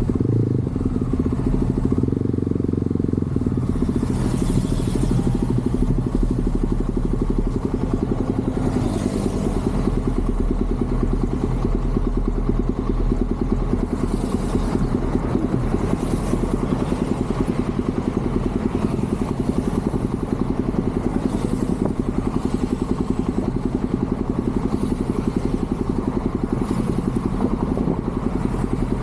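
Motorcycle engine and exhaust running steadily under way, a dense, even beat of firing pulses with no revving up or down.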